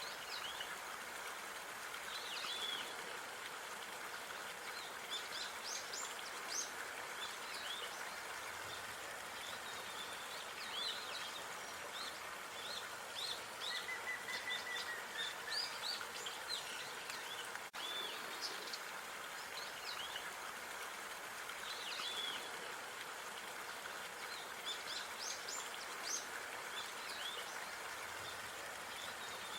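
Park ambience: small birds chirping in short, high calls throughout, over a steady background hiss, with a brief trill about halfway through.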